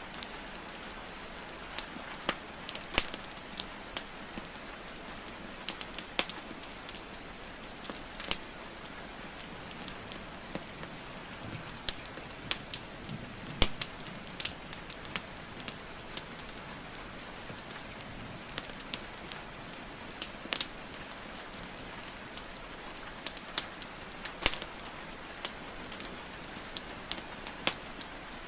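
Wood fire crackling and popping in a fireplace, sharp irregular pops a few times a second, over a steady hiss of falling rain.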